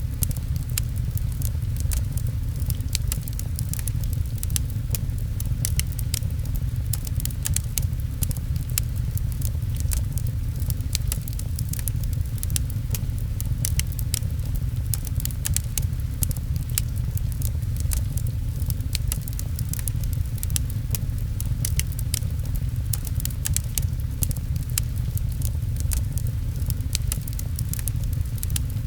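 Wood fire crackling with a dense run of small, sharp pops over a steady low rumble, mixed with rain pattering on a window.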